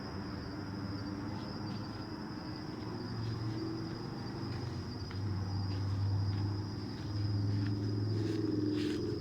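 Crickets trilling steadily in a high, even pitch, with a low rumble of an airplane passing overhead that swells about five seconds in.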